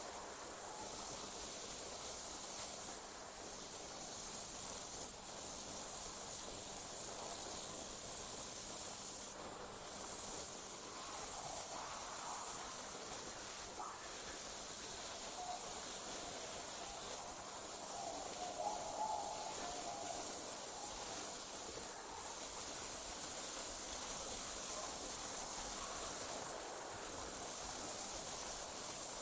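Night insects trilling in one continuous high-pitched chorus that breaks off briefly every few seconds, with faint lower calls in the middle.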